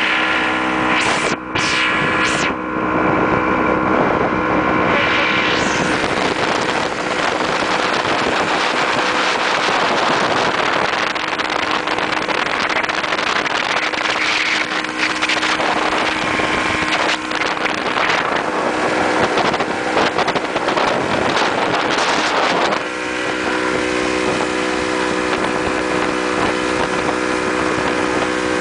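Motorboat engine running steadily underway, with wind and rushing water loud over it for most of the stretch. The engine's steady hum comes through clearly again near the end.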